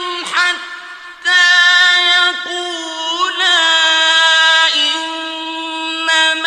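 A male reciter's voice in melodic Quran recitation. It holds long, ornamented notes: a brief break about a second in, then one long sustained note that wavers and steps down in pitch near the end.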